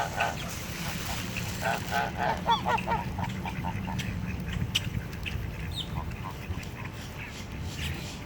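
Birds calling in short honking calls, a quick run of them about two seconds in and a few scattered calls after, over a steady low hum.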